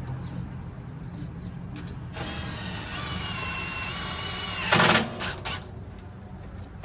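Cordless drill driving a screw to tighten a bumper fastener. The motor whines steadily for a couple of seconds, then gives a short loud burst as the screw seats, followed by a few clicks.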